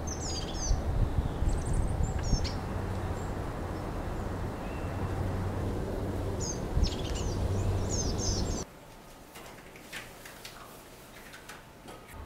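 Small birds chirping in two short flurries over a steady low outdoor rumble. The rumble and chirps cut off suddenly about three-quarters through, leaving a quieter room tone with a few faint clicks.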